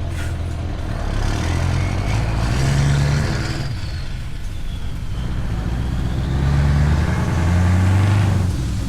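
Scania V8 diesel truck with an open, straight-piped exhaust pulling under load. The engine pitch rises twice, getting louder each time, and falls away after each rise.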